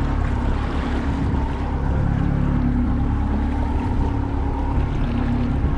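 Boat's outboard motor running steadily at trolling speed, a constant low hum, with water and wind noise over it.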